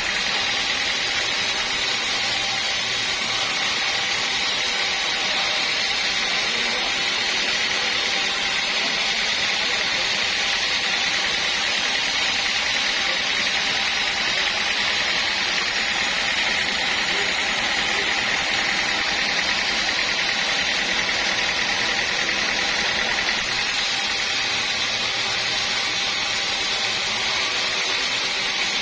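Homemade band sawmill running steadily, a continuous machine noise with a high, even whine from the saw.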